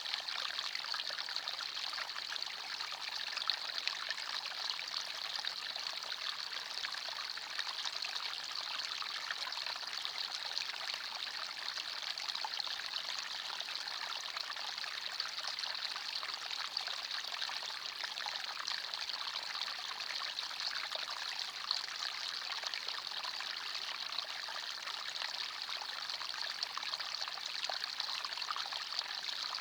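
Forest stream, water running and trickling steadily: an even, bright rush of water with little deep rumble.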